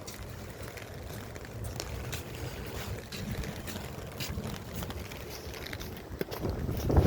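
Strong wind buffeting the microphone: a steady low rumble, with a stronger gust near the end and scattered light ticks.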